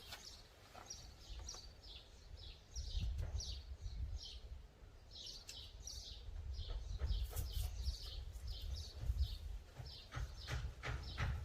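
A songbird calling steadily with short, high, falling chirps, about two a second, over a low rumble, with a few sharp clicks near the end.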